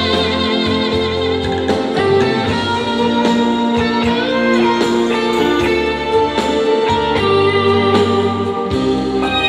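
Live band playing the instrumental interlude of a Korean trot ballad, with a melodic lead guitar line over bass and keyboards and a steady beat.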